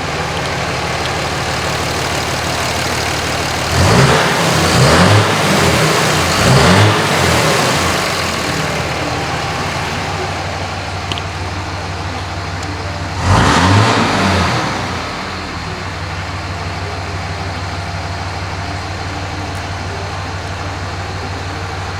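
A 2005 Ram 2500's 5.9 Cummins inline-six turbo diesel running at a steady idle, revved up twice: about four seconds in, rising and falling over roughly four seconds, and again briefly about thirteen seconds in, before settling back to idle.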